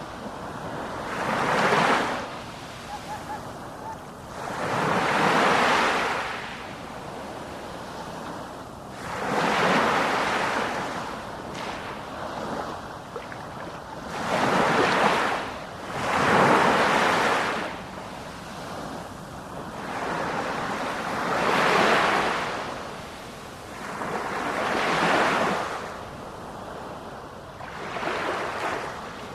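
Ocean waves breaking on the shore, about eight surges that each swell up and wash away every three to four seconds.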